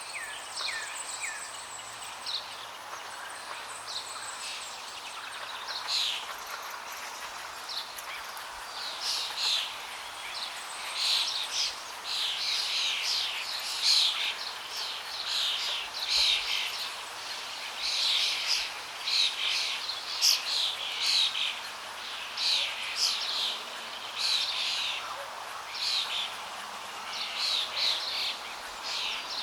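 Birds calling in quick, repeated short phrases over a steady rush of flowing water. The calls grow busier and louder about a third of the way in.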